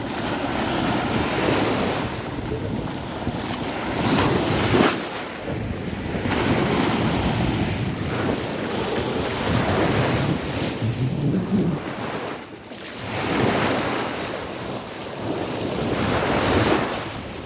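Heavy surf breaking on a sandy shore in surges, with wind buffeting the microphone.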